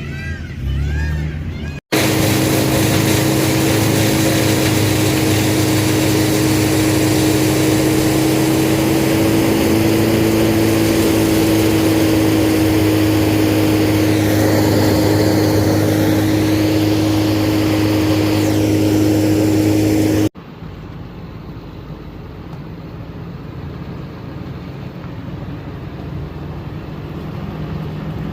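Heavy engine-driven machinery running steadily at high speed, with a strong even hum. Near the end of the first two-thirds it cuts off abruptly to a quieter engine running.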